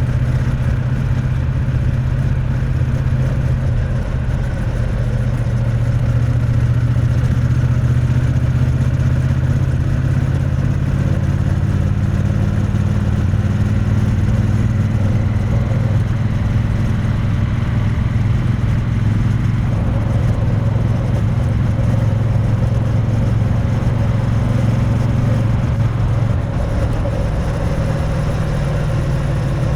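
Triumph Bonneville T100's parallel-twin engine and exhaust running steadily while riding, picked up close to the exhaust. The note changes near the end.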